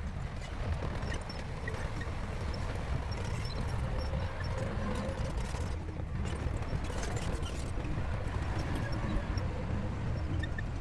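Crawler bulldozer at work: its diesel engine running steadily, with irregular clanking and rattling from the steel tracks.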